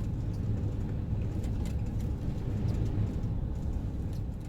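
A van driving along a town street: a steady low rumble of engine and tyres, with a few faint ticks.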